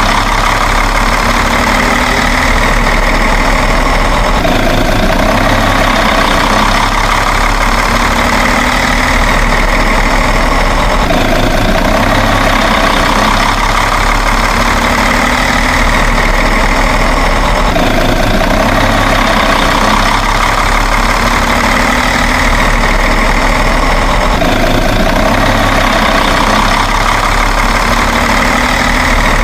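Truck engine idling steadily, the same stretch of sound repeating in a loop about every six and a half seconds.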